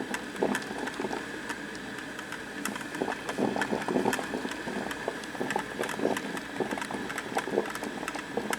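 Black & Decker thermal carafe drip coffee maker brewing: a steady hiss with irregular gurgling pops as the water heats and pushes through.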